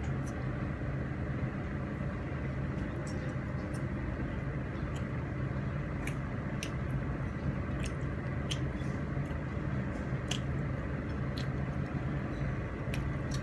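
A person chewing a mouthful of fried tempeh and anchovies, with scattered small wet clicks and smacks of the mouth, over a steady low hum.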